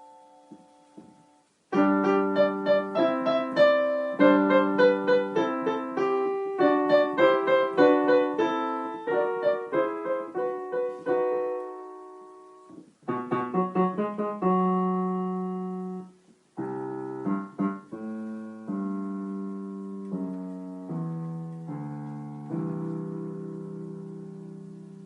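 Piano playing a short, simple piece in phrases, with two brief pauses between them, ending on a held low chord that slowly dies away.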